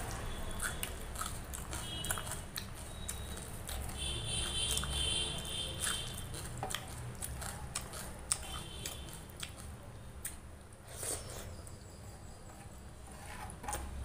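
Close-up eating sounds: chewing a mouthful of rice soaked in rasam and curry, with many small wet clicks, and fingers mixing rice in the liquid on a steel plate.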